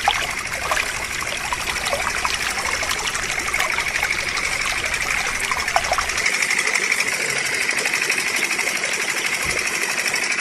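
A small motor running steadily with a fast, even rattle; the low rumble underneath drops away about six seconds in.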